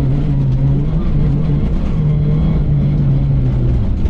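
VW Golf 3 GTI rally car's four-cylinder engine heard from inside the cockpit, running hard under load on a gravel stage, its pitch rising and dipping several times with throttle and gear changes, over a low rumble from the car.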